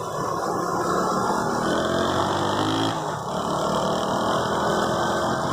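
Motor vehicle engines running in traffic, one rising in pitch as it speeds up about two seconds in, over a steady hissing wash of noise.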